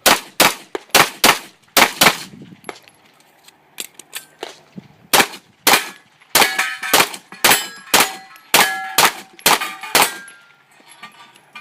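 A 9mm Glock 17 pistol fires a quick string of about six shots, then pauses for about three seconds and fires about ten more. In the second string, steel targets ring after the hits.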